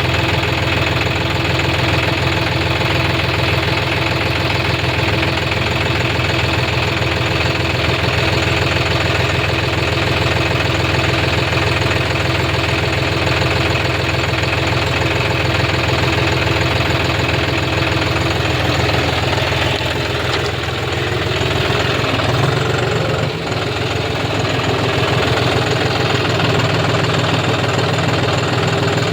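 Diesel engine of a tractor or backhoe loader running steadily, with a slight shift in its note around twenty seconds in.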